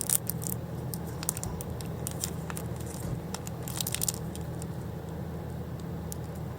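Wood campfire crackling, with sharp pops scattered through it and a cluster of pops a few seconds in, over a steady low rumble.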